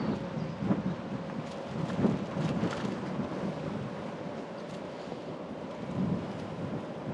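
Steady low rumble of a bicycle ride: tyres rolling on the path and the bike rattling, with a few small knocks about two and a half seconds in.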